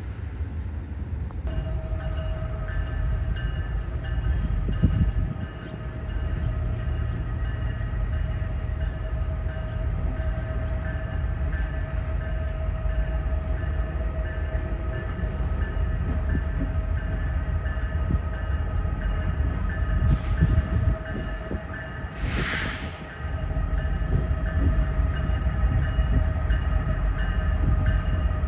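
A train rolling past with a heavy, steady low rumble. Steady ringing tones join in about a second and a half in and continue throughout, and a few short hissing bursts come near the end.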